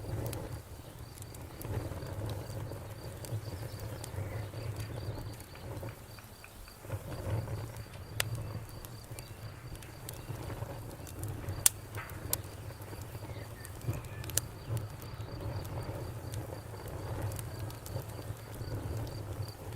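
Wood campfire crackling, with a low rumble from the flames and scattered sharp pops, the loudest about twelve seconds in. A faint, even high-pitched chirping runs underneath.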